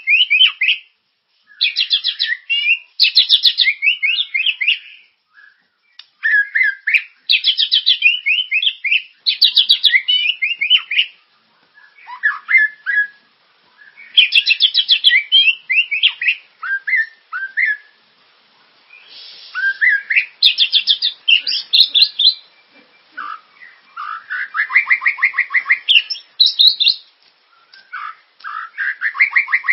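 Recorded songbird song from a tutoring track for white-rumped shamas: phrases of rapid, sweeping trills and chattering notes, each lasting one to three seconds, with short pauses between them.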